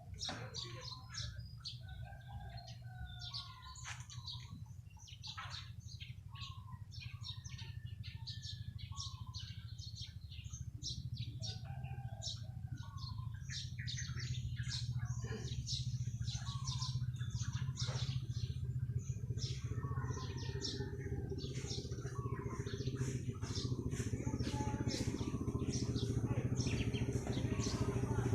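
A flock of small birds chirping busily: many short, quick chirps and squeaky calls overlapping. An engine's low drone underneath grows louder through the second half.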